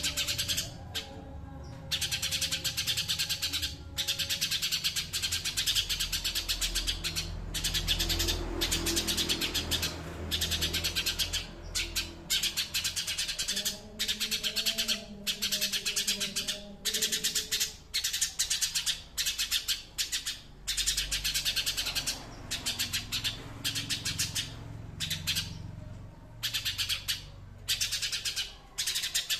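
A songbird singing very rapid, high, chattering trills in bursts of a second or two, broken by short pauses, over a faint low background rumble.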